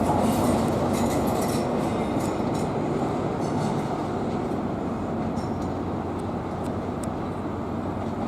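Class 43 HST (InterCity 125) train running out along the platform, its diesel power car and wheels making a steady rumble that slowly fades. Scattered sharp clicks and brief high squeaks come from the wheels on the rails.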